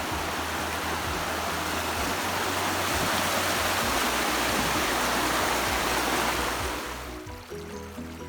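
Rushing stream water, a steady broad rush that swells and then fades out about seven seconds in, over background music that carries on alone at the end.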